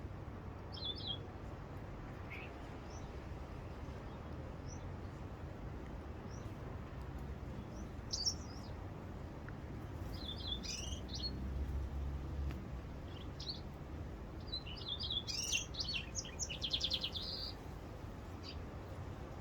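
Bird chirping in scattered short high notes and phrases, ending with a quick, evenly pulsed trill, over a steady low background rumble.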